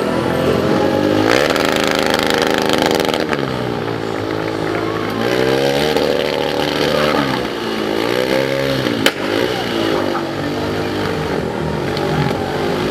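Ducati stunt motorcycle engine revving hard, its pitch rising and falling several times, with a single sharp crack about two-thirds of the way through.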